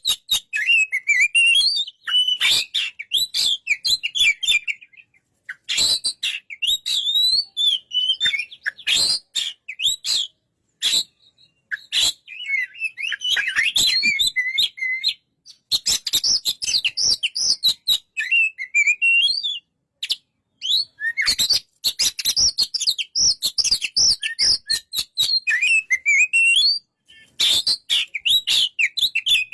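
Oriental magpie-robin singing in bursts of a few seconds of quick, varied whistled notes that slide up and down, separated by short pauses, with many sharp clicks among the notes.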